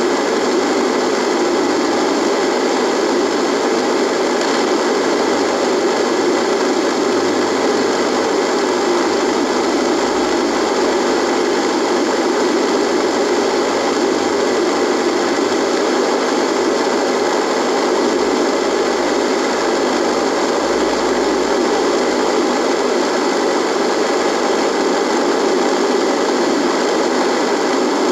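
Radio buzzing with steady, unchanging static noise, strongest in the lower-middle range, with faint steady tones above it.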